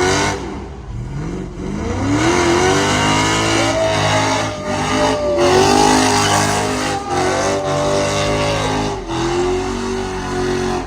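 Mopar car's engine revving hard during a burnout, its pitch climbing and dropping again and again, with a steady rush of tire noise underneath.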